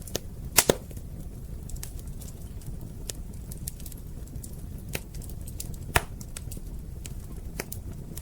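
Wood fire crackling and popping over a steady low rumble, with irregular sharp snaps, the loudest a pair just over half a second in and another about six seconds in.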